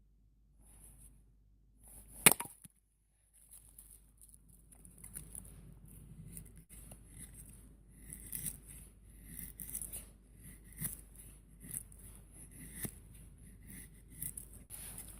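One sharp crack about two seconds in, followed by a run of irregular light clicks and snips, roughly one a second.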